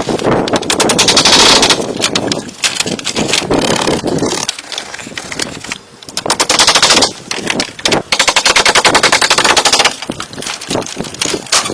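A power tool working wood with a fast, rattling stroke, running in several bursts of a second or two.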